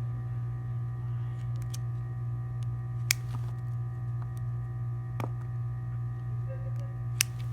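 A steady low electrical hum with a few sharp clicks over it, two of them loud, about three seconds in and near the end.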